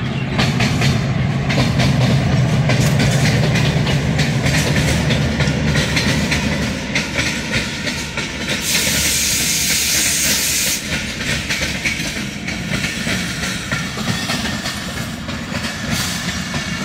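Passing express train: a ZCU20 diesel-electric locomotive runs by with a loud low engine rumble, then its coaches clatter over the rail joints. About nine seconds in, a hiss of released air lasts roughly two seconds.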